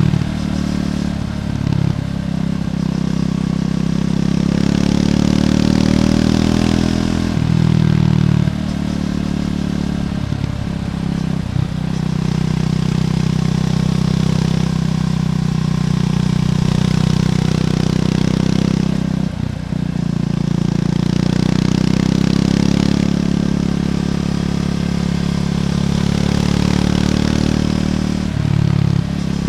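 Triumph Scrambler 400X's single-cylinder engine running through its stock exhaust under way, its note changing pitch with the throttle and breaking off for a moment about five times before picking up again.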